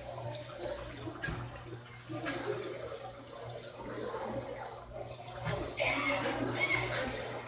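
Tap water running and splashing into a sink, over a steady low hum; the splashing gets louder about two-thirds of the way through.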